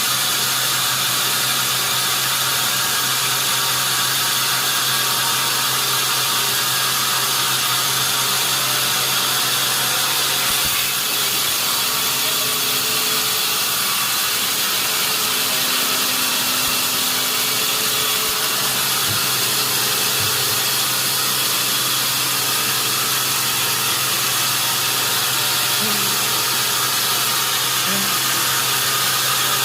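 Sawmill saw running steadily: a loud, even rushing noise with a constant low hum underneath.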